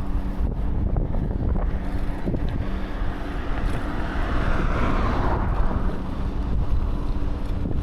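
Wind buffeting the microphone while cycling, a steady low rumble, with a rushing noise that swells and fades about four to five seconds in.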